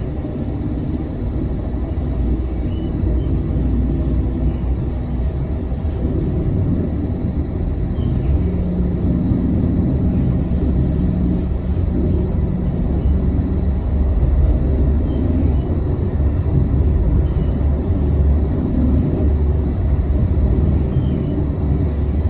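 Tram running between stops, heard from inside: a steady low rumble of wheels on rails that grows slightly louder, with a steady low hum for a few seconds in the middle.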